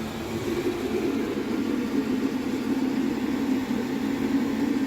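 Chinese diesel air heater running steadily: its blower and burner make a constant hum.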